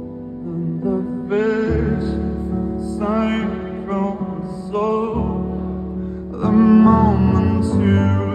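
Live band music: a sung lead vocal with vibrato, in phrases that start about every one and a half to two seconds, over sustained low bass notes and chords. The band gets louder about six and a half seconds in.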